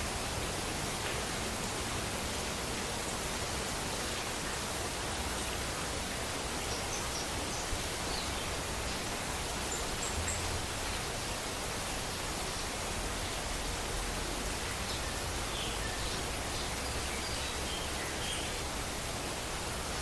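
Steady rain falling, a dense, even hiss without a break. A few faint, short high chirps sit over it in the middle and latter part.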